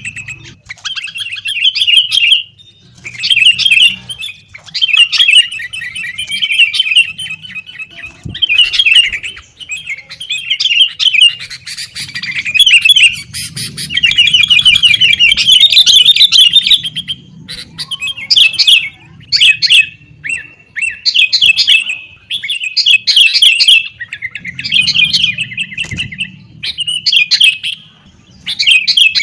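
Sooty-headed bulbuls (kutilang) calling noisily: rapid rattling chatters and sharp chirps in loud bouts of one to two seconds with brief gaps, over a low background rumble.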